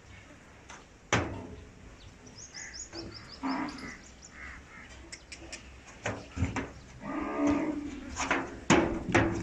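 Cattle lowing, with a drawn-out moo near the end and several sharp knocks scattered through.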